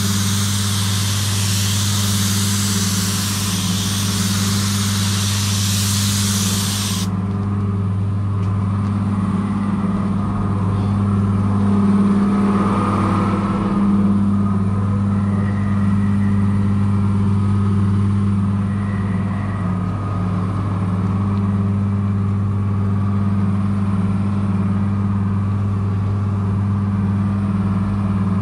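A motor vehicle's engine running steadily with a constant low hum. A loud hiss over it cuts off suddenly about seven seconds in.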